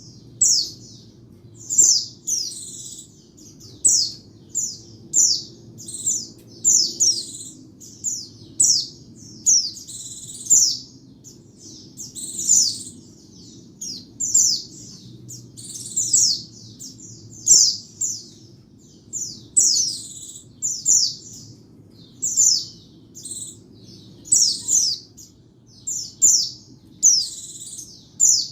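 Pleci (white-eye) singing a quick run of short, high, downward-slurred chirps in clusters, one or two a second. It is the call used as a lure and master song for white-eyes.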